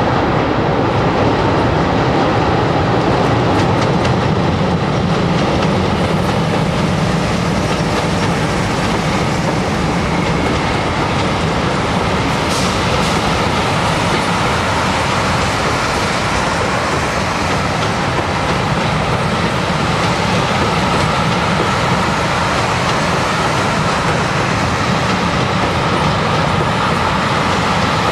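Pair of MLW MX636 diesel-electric locomotives with 16-cylinder ALCO 251 engines running as they haul a loaded freight train across a steel trestle viaduct. The locomotives pass first, then the wagons roll by, their wheels rumbling and clattering steadily on the steel bridge.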